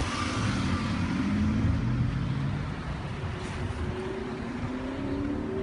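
A car engine running close by, its pitch rising slowly over the last few seconds.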